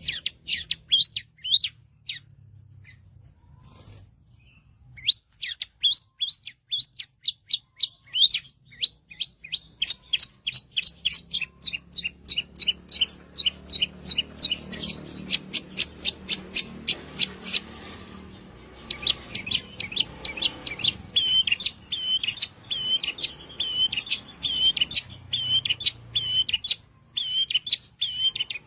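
Long-tailed shrike singing in quick, sharp repeated notes. After a brief pause a few seconds in, it breaks into a long fast run of notes, then switches to a steady series of a different repeated note for the last third.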